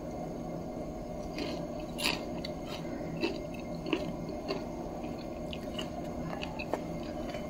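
Someone chewing a bite of crispy kala chana dosa: irregular small crunches and crackles over a steady low hum.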